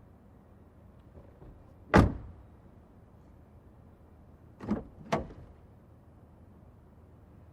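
Car door shut with a single loud thud about two seconds in, then two quicker, lighter knocks of the door mechanism close together near the middle.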